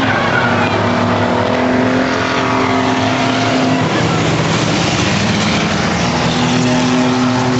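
Several race car engines running at once around an enduro track, a steady loud drone of held pitches that shift as cars come and go.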